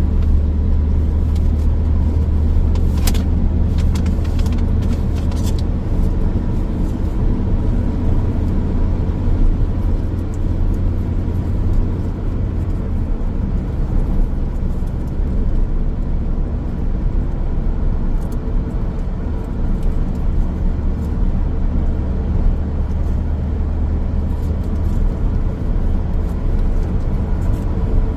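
A car driving along a road: a steady low rumble of tyres and engine, with a few brief clicks about three to five seconds in.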